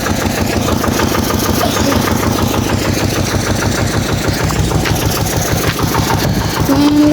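An engine running steadily with a fast, even chugging pulse. A held pitched sound comes in near the end.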